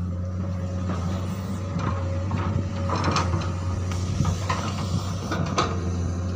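Komatsu PC200 hydraulic excavator's diesel engine running steadily, with a scattering of sharp metallic clanks and knocks as the machine works, most of them in the middle few seconds.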